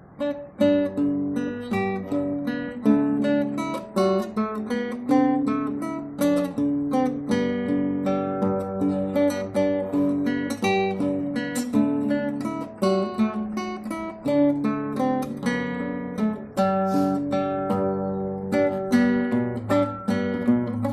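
Background music: acoustic guitar played in a steady run of plucked and strummed notes.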